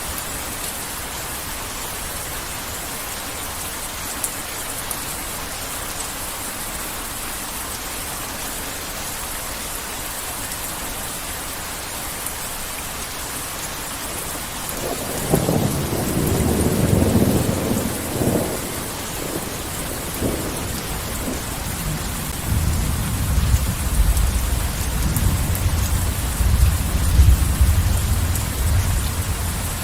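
Heavy rain falling steadily. About halfway through, thunder breaks out in a loud rumble, then keeps rolling lower and deeper to near the end.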